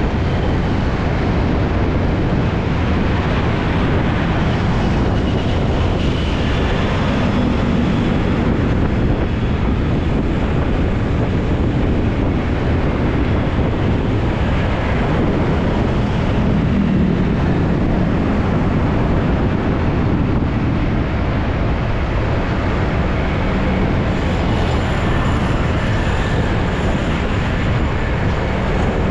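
Carburetted Honda Beat scooter riding along, its small single-cylinder engine running under steady wind rush on the dashboard-mounted camera's microphone.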